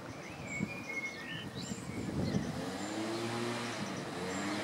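Short bird chirps, then about halfway through a road vehicle's engine comes in and grows louder, its pitch rising slowly as it drives by or speeds up.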